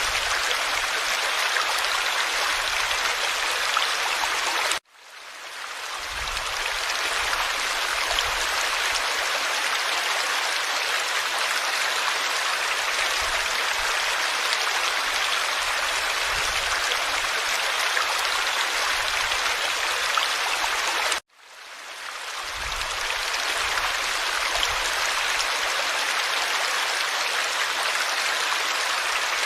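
Forest stream flowing with a steady rush of water. The sound cuts out abruptly twice, about five seconds in and again about two-thirds of the way through, and each time fades back in over a couple of seconds.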